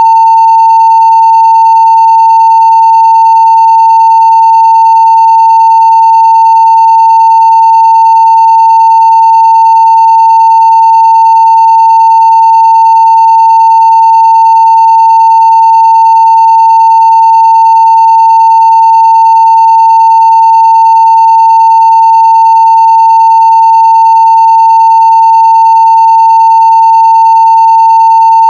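Steady 900 Hz sine-wave test tone at full-scale level (0 dB), one unbroken pitch throughout.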